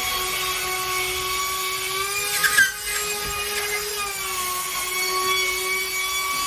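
A power tool's electric motor running with a steady whine, its pitch shifting slightly for a couple of seconds partway through, with a short louder burst about two and a half seconds in.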